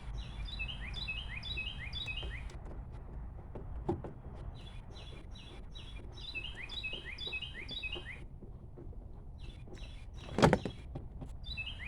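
A songbird singing quick runs of repeated, downward-sliding chirps over a steady low rumble. A single sharp knock about ten and a half seconds in is the loudest sound.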